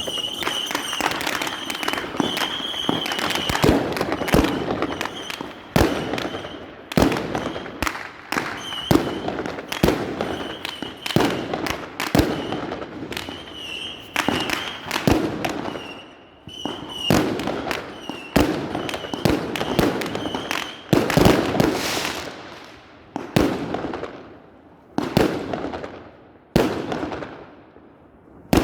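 Aerial fireworks going off in a long series of sharp bangs, each followed by a fading rumble. The bangs come thick and fast at first, then spread out to about one every second or two, and a high whistle sounds on and off through the first two-thirds.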